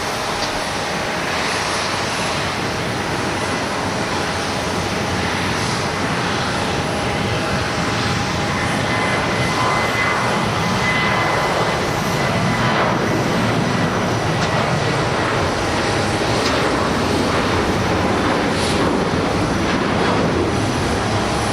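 Large jet airliner's engines at takeoff power, a steady loud rush with a faint whine held under it, growing a little louder partway through.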